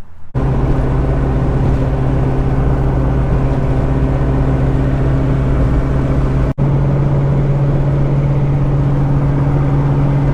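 A car driving at a steady speed: a loud, steady engine and road drone with a low hum. It breaks off for an instant about six and a half seconds in.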